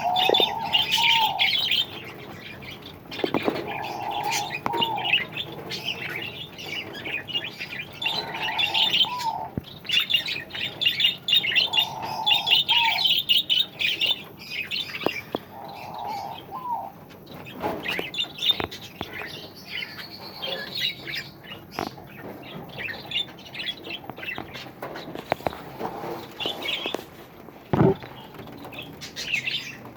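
A mixed flock of small cage birds chattering and chirping, with one short call with an upturned end repeating about every four seconds through the first half. Scattered wing flaps and light knocks, with one louder knock near the end.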